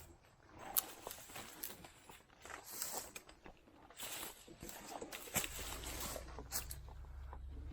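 Irregular rustling and crackling of brush and leaves, like footsteps moving through undergrowth. A low steady hum comes in about five seconds in.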